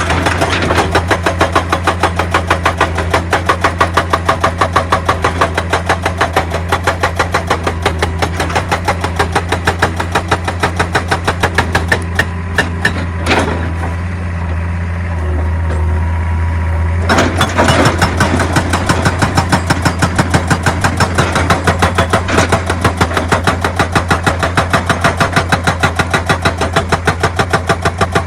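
Excavator-mounted hydraulic rock breaker hammering stone in rapid, even blows about five a second over the steady hum of the diesel engine. The hammering stops for a few seconds midway, leaving the engine running, then starts again.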